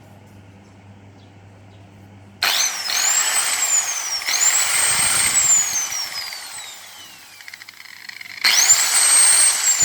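Handheld electric cutter with newly replaced bearings, switched on three times. Each time the motor spins up to a high whine within about a second, then coasts down with falling pitch as it is let go. The bursts come about two seconds in, again near four seconds, and near eight and a half seconds.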